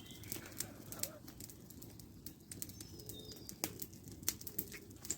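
Scattered faint sharp crackles and clicks, with a pigeon cooing faintly in the background.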